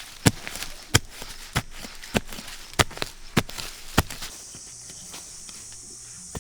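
Seven sharp, evenly paced knocks, about one every 0.6 seconds, stopping about four seconds in. A steady high hiss carries on after them.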